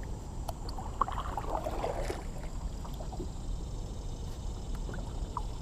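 Kayak paddling: the paddle dipping and water splashing and dripping, with scattered soft clicks.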